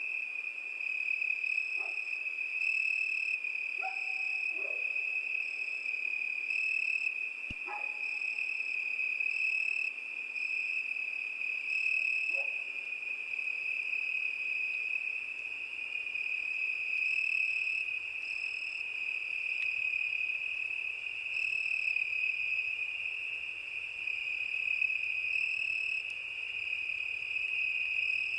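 Crickets singing in a night chorus: one steady, unbroken high trill, with a second, higher chirping that starts and stops irregularly over it. A few faint, short, lower calls come now and then in the first half, and a single sharp click sounds about seven and a half seconds in.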